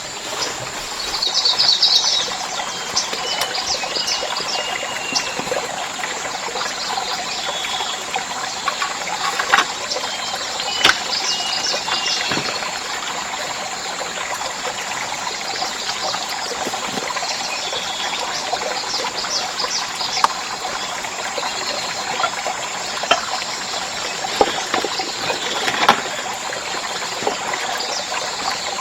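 Water trickling and running steadily, with short bird chirps coming and going and occasional sharp clicks or knocks.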